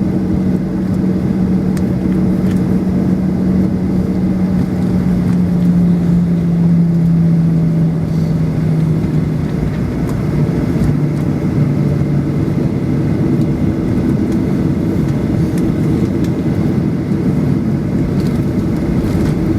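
Cabin noise inside a Boeing 737-800: the CFM56-7B jet engines running with a loud, steady hum, its pitch dropping slightly about seven to ten seconds in.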